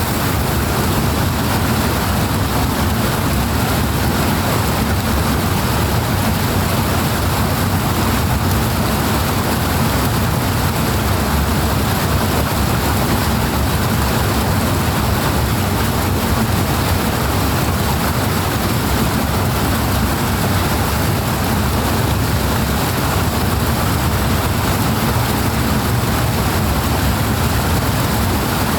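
Powerful rushing water, a steady dense roar heavy in the low end.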